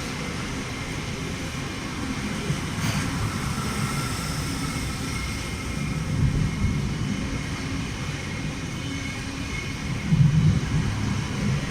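Passenger train running: a steady low rumble with faint constant whining tones above it, and one short click about three seconds in.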